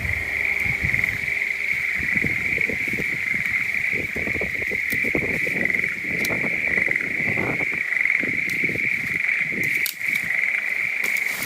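A chorus of frogs trilling, a steady high-pitched trill that goes on without a break, over irregular rustling close by.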